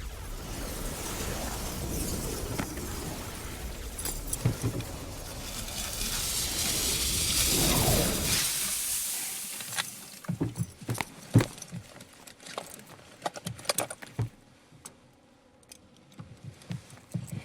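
A rushing noise that swells for several seconds and then dies away, followed by a quick irregular run of sharp clinks and knocks.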